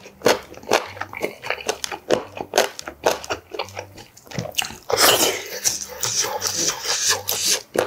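Close-miked chewing and wet mouth sounds of a man eating braised kimchi with pork back ribs and rice, a run of quick sharp smacks and clicks. From about five seconds in it turns into a denser, louder stretch of mouth noise.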